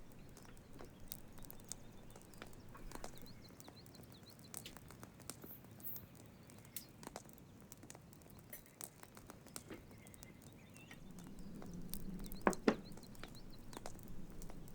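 Faint outdoor quiet with scattered light clicks and knocks and a few faint bird chirps. About eleven seconds in, a low hum rises briefly, and two sharper knocks come close together.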